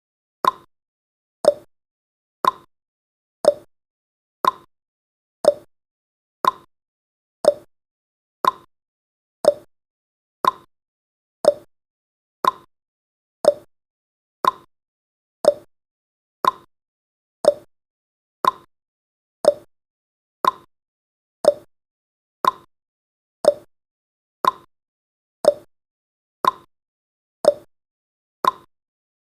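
Countdown timer's clock-tick sound effect: a short, sharp tick once a second, alternating between a slightly higher and a slightly lower tick, like a tick-tock.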